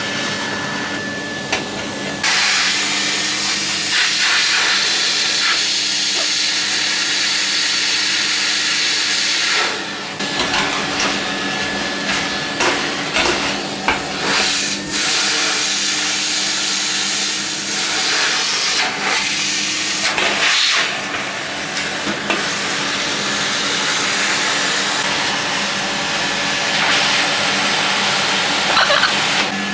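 Vacuum cleaner running: a steady motor hum under a loud rushing hiss of air that swells sharply about two seconds in, then shifts and briefly dips several times, with a few short knocks.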